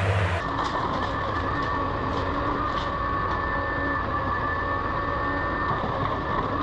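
Forestry harvester running: a steady high hydraulic whine over a low engine rumble, with a few faint light knocks. The sound changes abruptly about half a second in.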